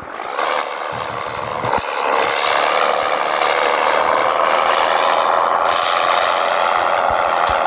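Scania 113 truck's diesel engine running under load. It builds over the first two seconds, then holds steady and loud.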